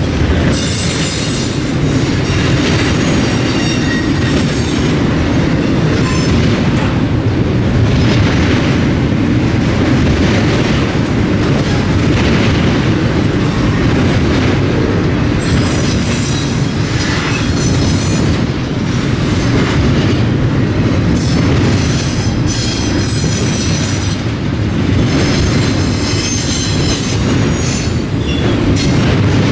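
Freight train cars rolling past with a steady rumble and clatter of wheels over the rail, and high-pitched steel wheel squeal that comes and goes.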